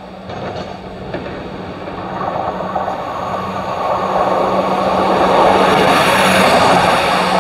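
Northern Class 170 Turbostar diesel multiple unit approaching and running past along the platform: a steady low engine drone under wheel-on-rail noise that grows steadily louder as the train comes close.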